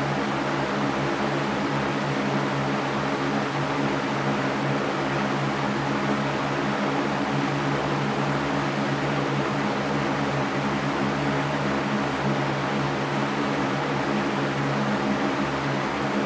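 Electric fan running steadily: an even whoosh of moving air over a constant low motor hum.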